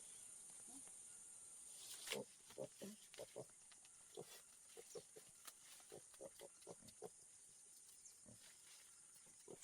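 A faint series of short animal calls, two or three a second, from about two seconds in until about seven seconds in.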